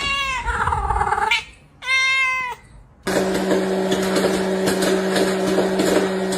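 A cat meowing twice: a long meow that drops in pitch and holds, then a shorter one. About three seconds in the sound cuts abruptly to a steady mechanical hum with a hiss.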